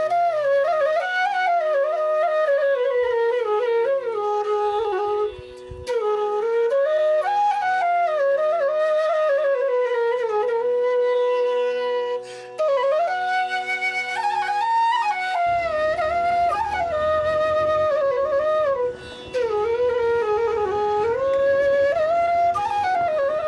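Flute melody with ornamented slides and turns over a steady held drone, pausing briefly now and then. About two-thirds of the way in, a low rumbling noise joins underneath.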